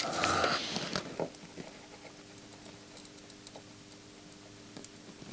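Faint, scattered small ticks and taps from hand-soldering a chip onto a circuit board, over a steady faint hum, with a brief breathy hiss at the start.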